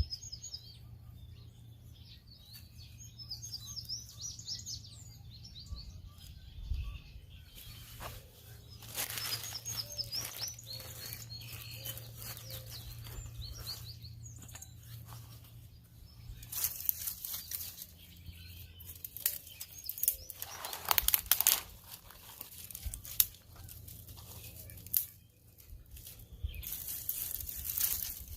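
Small birds chirping and singing in the first half. From about halfway on come loud bouts of crinkling and rustling, as of something being handled.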